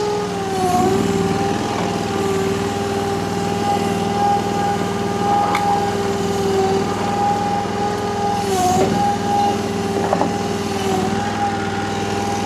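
Honda GX690 V-twin gasoline engine of a mini tracked skid steer running at high throttle with a steady whine, its pitch sagging briefly under hydraulic load about a second in and twice more near the end as the machine strains to lift a heavy pallet of concrete blocks.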